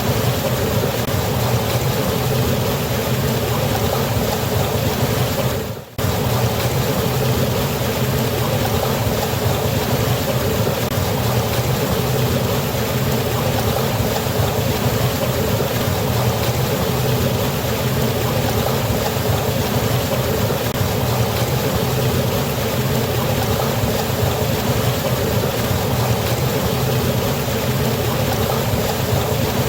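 A waterfall's water rushing steadily, a deep even roar of falling water, with a brief drop-out about six seconds in.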